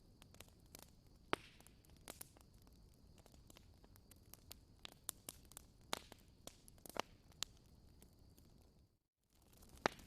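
Campfire crackling: irregular sharp pops and snaps of burning wood over a soft hiss. The sound cuts out for a moment about nine seconds in, then the popping resumes.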